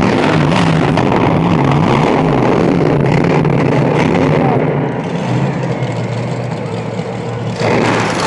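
Monster truck engine revving hard, its pitch swinging up and down as the truck makes its run, easing off for a few seconds, then coming back in loudly near the end.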